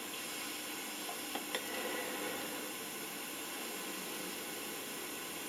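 Steady background hiss with two faint ticks close together about a second and a half in.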